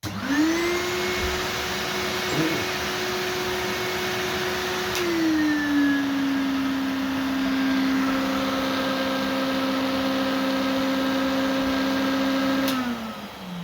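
Numatic Henry Extra vacuum cleaner switched on, its motor spinning up fast to a steady whine. About five seconds in, a click and the motor drops to a lower, steady speed. Near the end another click, and the motor winds down with falling pitch as it is switched off.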